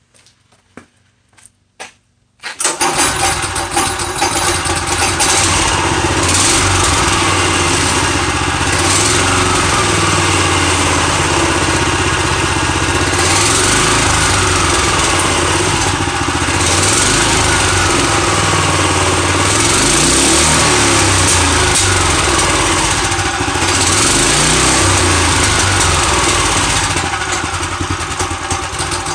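Go-kart's small engine catching about two seconds in after a few faint clicks, then running loud and fast, its pitch rising and falling every few seconds. It will not settle to an idle; its governor has been disconnected.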